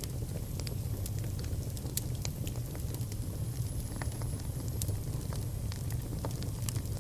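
Fire burning in a fireplace: a steady low rumble of the flames, with sharp, irregular crackles and pops, and now and then a faint high-pitched whistle.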